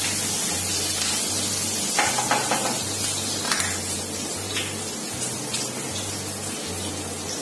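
Cumin seeds and chopped green chilli sizzling in hot mustard oil in a non-stick kadhai, with a few clicks and scrapes of a spatula against the pan about two to three and a half seconds in.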